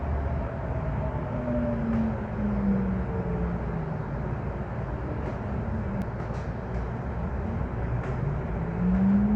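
Light rail train running, heard from on board: a steady rumble with an electric motor whine that falls in pitch over the first few seconds and rises again near the end, as the train slows and then picks up speed.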